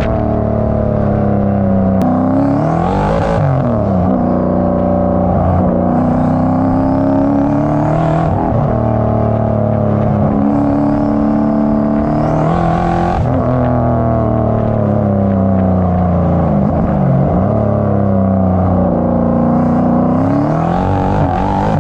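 Turbocharged LS V8 in a Nissan 300ZX (Z31) running, its engine speed rising and falling again and again, climbing steadily over a few seconds and then dropping off sharply, with steadier stretches between.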